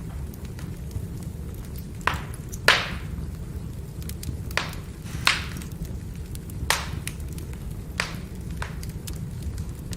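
Firewood burning: a steady low rumble of the fire with sharp crackles and pops, about seven of them, the loudest a little under three seconds in.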